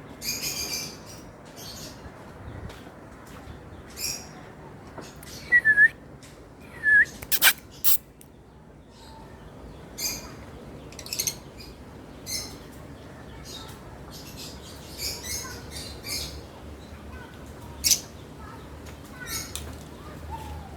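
Lovebirds chirping: short, sharp, high calls scattered every second or so, with a few louder squeaks around the middle.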